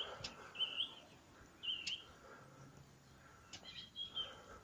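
Songbirds calling in trees: short, high chirping phrases, a few in the first two seconds and another cluster about four seconds in.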